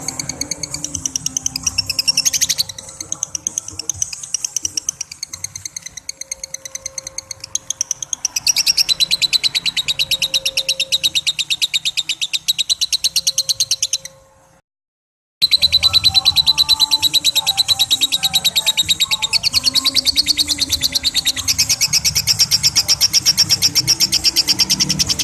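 Lovebird giving its long 'ngekek' call: a very rapid, high-pitched chattering trill of evenly repeated notes in long unbroken runs. It breaks off once for about a second just past the middle, then resumes louder.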